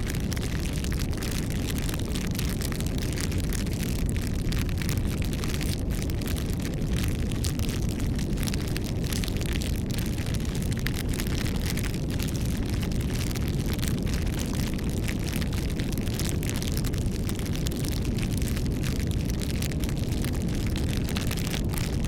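Campfire burning, with frequent sharp, irregular crackles and pops of burning wood over a steady low rush of flame.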